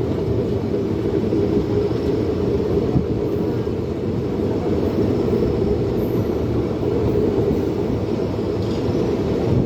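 Train running through the station, a steady low rumble.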